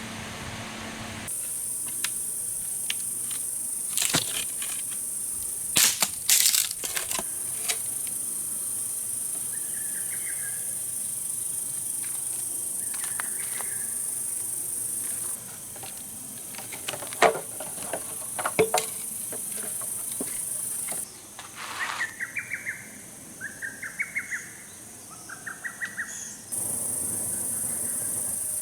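Insects chirring in a steady high-pitched drone that cuts in and out abruptly, with scattered sharp cracks and a few short, rapidly pulsed chirps.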